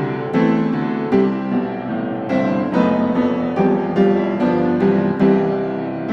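Background piano music: a gentle melody of single struck notes and chords, a new note roughly every half second.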